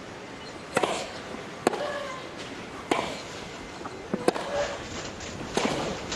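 Tennis rally: rackets striking the ball five times, back and forth about every second and a half, over a steady background hiss.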